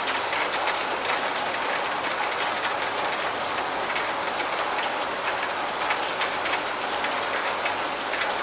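Steady rain falling, an even hiss with many separate drops ticking close by.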